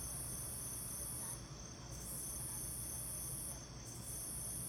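Insects trilling in long high stretches of about a second and a half, each broken off by a short pause, over a steady low background rumble.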